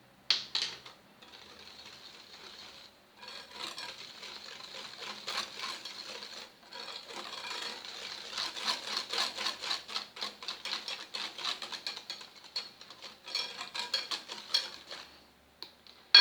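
Egg, sugar and oil mixture with cocoa being whisked briskly in a mixing bowl: fast, irregular clicking and scraping strokes, with brief pauses. A single clink of utensil on bowl about a second in.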